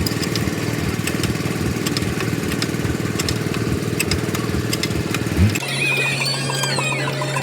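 An engine running with a rapid, even pulse. After about five and a half seconds it cuts off abruptly and gives way to a steady low hum with chirping sounds above it.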